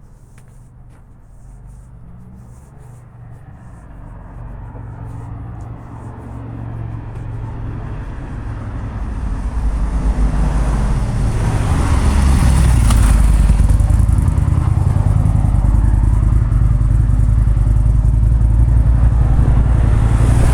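A vehicle approaching close by: its low rumble builds steadily over about ten seconds, then stays loud and steady.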